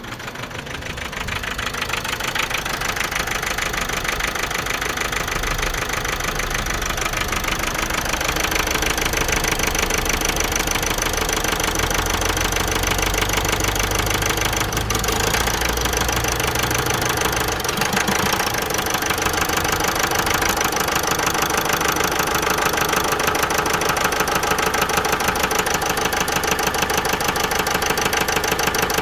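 Vauxhall Meriva 1.6 CDTI four-cylinder diesel engine running at idle, steady after growing louder over the first several seconds.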